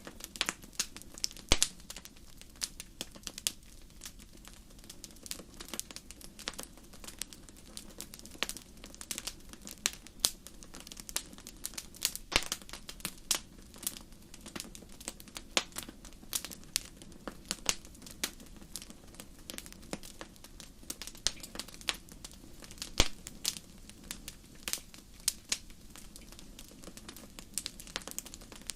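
Wood fire crackling: irregular sharp pops and snaps, sometimes several close together, over a soft steady low background.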